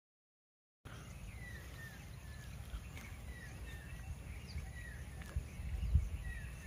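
Outdoor ambience starting about a second in: a bird repeating a short falling call about once a second, over a low rumble with a few soft thumps near the end.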